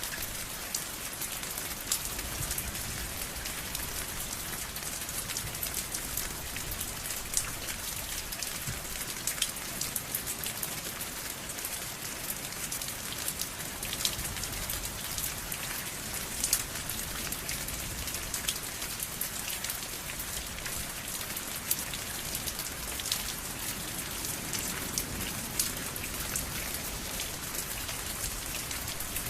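Steady rain falling on a surface, an even hiss with many separate drops ticking and pattering throughout.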